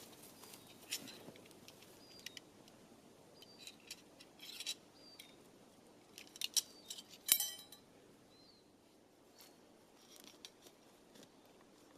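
Scattered small clicks, clinks and knocks of tent gear being handled while a small army tent is pitched, with a sharp ringing click about seven seconds in.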